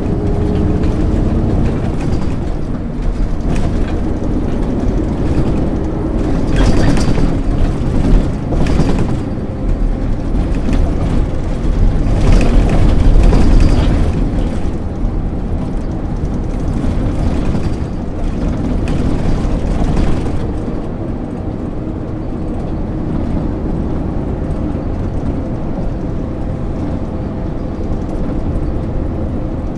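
MAN ÜL 353 intercity bus's diesel engine running under way, heard on board. It is louder and working harder in the first two-thirds. From about two-thirds of the way through it settles to a quieter, steady drone.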